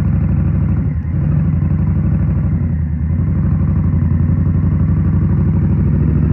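Indian Scout Rogue's 69 cu-in V-twin with a Rinehart slip-on exhaust, running steadily under way with a brief dip about a second in.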